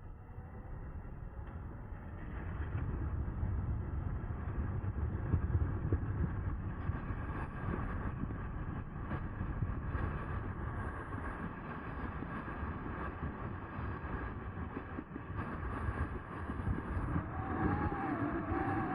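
Riding on an e-bike driven by a Bafang BBSHD mid-drive motor: wind rumble and tyre noise with the motor's steady whine, rising about two seconds in.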